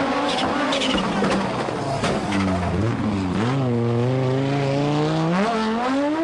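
Group B rally car engine running hard under acceleration, with a few sharp pops in the first second. The pitch drops at a gear change, then climbs steadily for a couple of seconds as the engine revs up.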